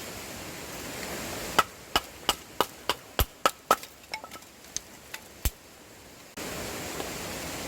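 Wood being chopped: a quick run of sharp knocks about three a second, then a few lighter ones. It cuts off abruptly near the end into a steady rushing noise.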